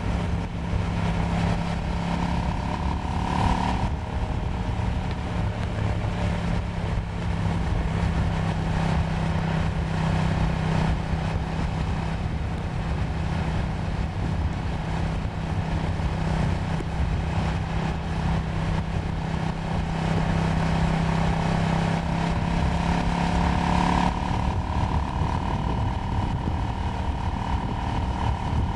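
KTM 790 Duke's parallel-twin engine running under way, with wind and road noise. The engine note holds a steady pitch for most of the time and shifts about four seconds in and again near the end.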